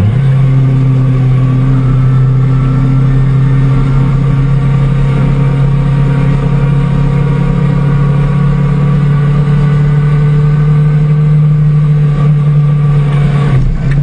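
Motorcycle engine running hard at a steady, held speed: its note climbs quickly at the start, then stays at one constant pitch, and changes abruptly near the end.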